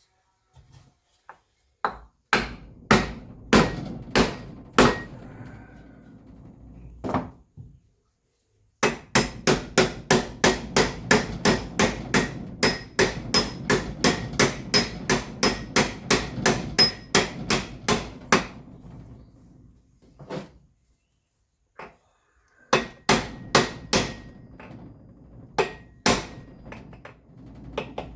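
Hammer blows on metal during tractor rear-axle seal work: a handful of strikes, then a steady run of about three blows a second for some ten seconds, then a few more strikes near the end.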